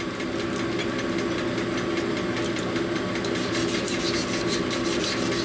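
Cylinder honing machine running steadily with a motor hum, its oiled abrasive stones rubbing and rasping inside a shovelhead engine cylinder bore; the scraping grows busier about three and a half seconds in.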